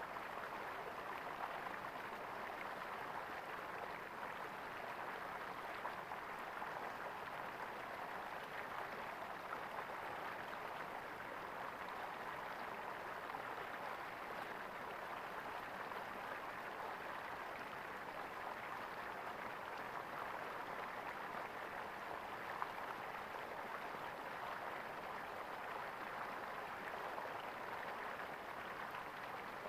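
Water gurgling steadily, as in a small stream.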